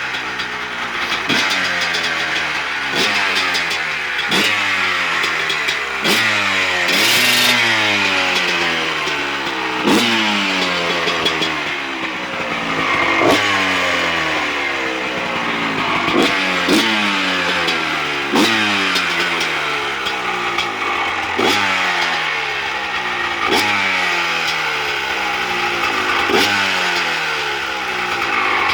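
Two-stroke 250 cc motocross bike engine being revved in repeated throttle blips. Each blip jumps up sharply and then falls back, about every one and a half to two seconds.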